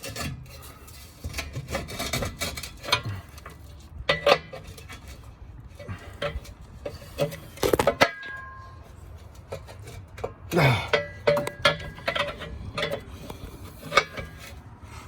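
Hand tools and steel mounting parts clanking and clinking while an air tank is bolted onto a truck frame: a run of irregular metallic knocks, with one sharp strike about eight seconds in that rings briefly.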